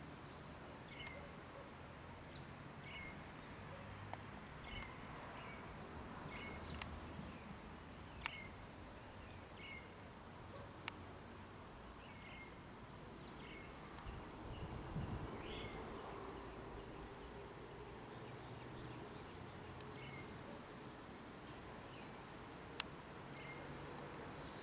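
Faint outdoor background with birds chirping: short high calls repeating about once a second, with clusters of thinner, higher chirps. There are a few sharp clicks, the loudest near the end, and a brief low rumble about halfway through.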